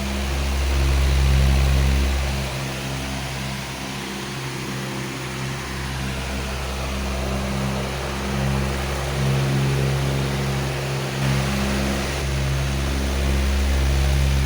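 Powerful electric fan running: a steady rush of air over a low motor hum that rises and falls in level every few seconds.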